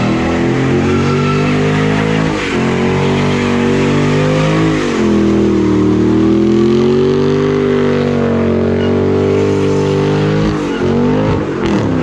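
Car engine held at high revs during a burnout, its pitch dipping and climbing again a few times, with the tires spinning and squealing against the road.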